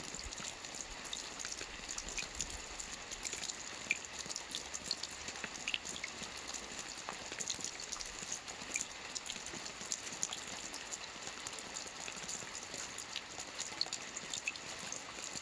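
Soft rain falling on a roof: a steady hiss with a dense, irregular patter of small drop impacts.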